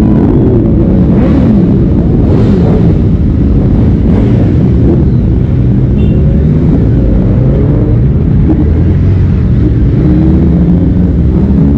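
Motorcycle engines running loud, a heavy rumble with pitch rising and falling as the engines rev.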